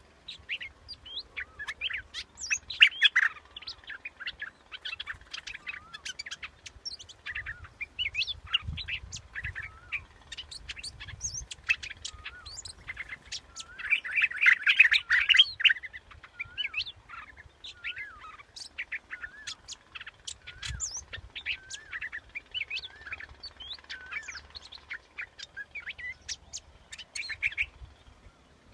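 Yellow bulbul ('nok dok taeng') singing a rapid stream of short warbled, bubbly whistles, busiest and loudest about halfway through: a decoy-call recording used to lure the bird.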